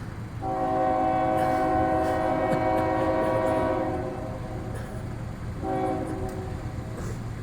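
Locomotive air horn sounding a multi-note chord for a grade crossing: a long blast of about three and a half seconds, then a short blast a couple of seconds later, as a Florida East Coast Railway freight train approaches. A steady low rumble runs underneath.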